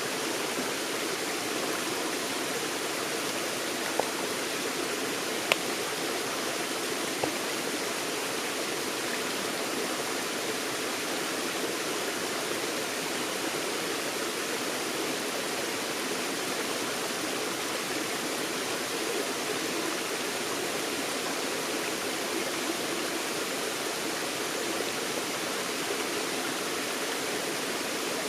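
Forest stream flowing steadily, an even rushing of water, with three brief sharp ticks between about four and seven seconds in.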